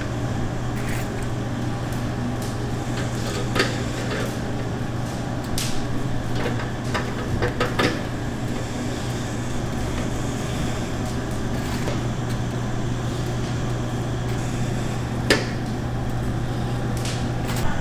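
Steady low machine hum with scattered clicks and knocks, typical of kitchen work around a chicken-roasting setup.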